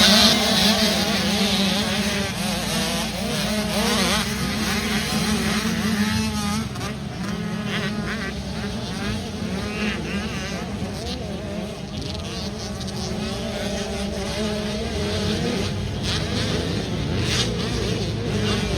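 Motocross dirt bike engines running and revving, several at once, their pitch wavering up and down over a steady low hum. Loudest at the start, then settling to an even level.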